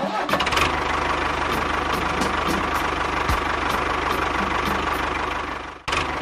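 Small engine of a home-built mini tractor running steadily with an even, fast firing rhythm. Just before the end it cuts out for a moment and then comes back.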